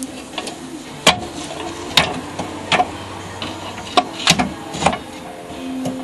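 Sharp metallic clinks and clicks at irregular intervals, about six in all, from hand tools and engine parts being handled during work on a VW engine.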